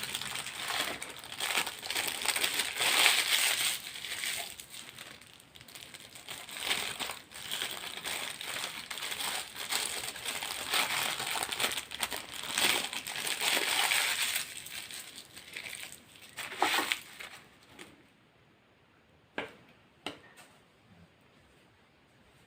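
Close, irregular crackling and crinkling from a KFC fried chicken meal being handled, in dense bursts that stop a few seconds before the end. Two sharp clicks follow.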